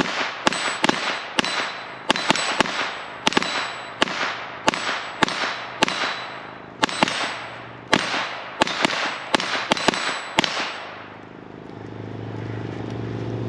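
.22 rimfire pistols, a Volquartsen and a Taurus TX22, fired rapidly by two shooters racing each other, about two to three shots a second in an uneven pattern. Each shot has a short echo, and the firing stops about ten seconds in.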